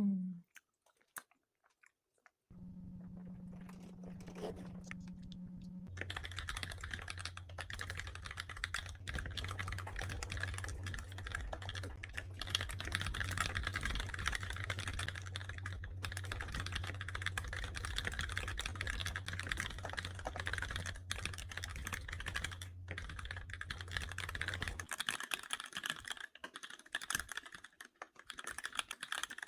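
Rapid typing on a computer keyboard, a dense run of key clicks starting about 6 seconds in, over a steady low hum that stops near the end, after which the typing goes on more sparsely.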